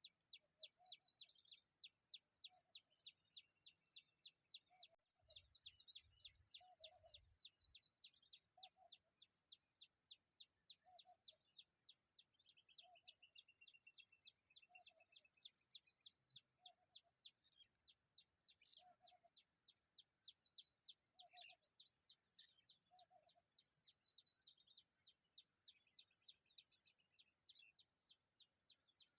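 Faint, high-pitched bird chirping over a steady high hiss with rapid, regular ticking, and a soft low call repeating about every two seconds.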